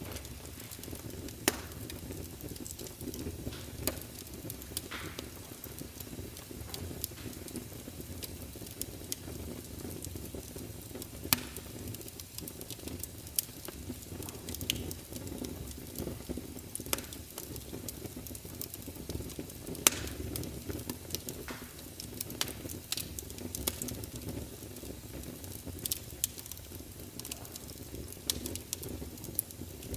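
Wood fire crackling: a steady low rush of burning with frequent sharp pops and snaps scattered throughout, a few of them much louder than the rest.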